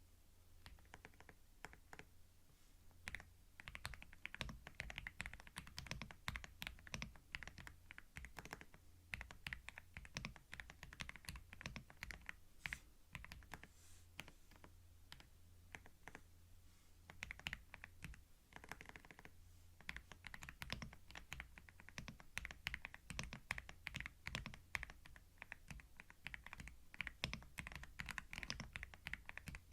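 Typing on a computer keyboard in fast, uneven runs of key clicks, with a brief pause about two-thirds of the way through, recorded close up on binaural microphones.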